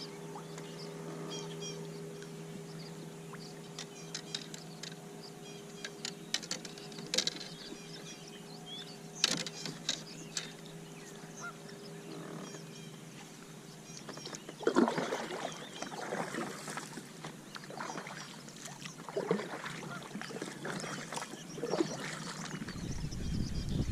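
Geese honking, a run of short loud calls starting a little past halfway. Before the calls there is only a faint steady hum with scattered clicks.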